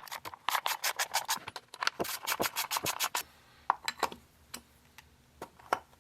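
Hand work on a small plastic-housed chainsaw during reassembly: two quick runs of rapid scraping clicks, then a few single clicks.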